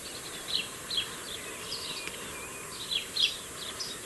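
Small birds chirping: short chirps that slide downward in pitch, coming in irregular groups, over a steady outdoor hiss.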